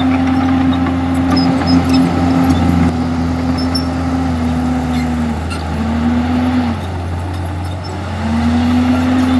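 Komatsu D51EX bulldozer's diesel engine running steadily under load, its pitch sagging briefly about five seconds in and again for longer near the end before it recovers. A few light clanks come about two seconds in.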